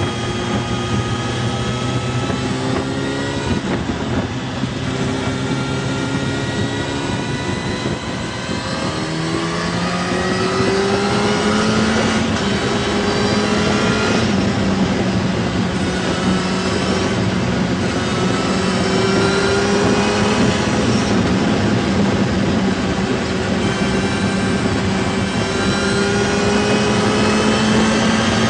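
A vehicle engine running continuously, its pitch drifting slowly up and dropping back every few seconds.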